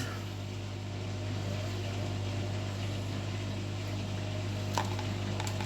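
Steady low hum, with a couple of faint clicks near the end.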